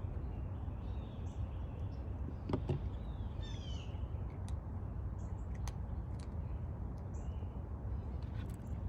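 Birds chirping in short high calls over a steady low rumble, with a single knock about two and a half seconds in.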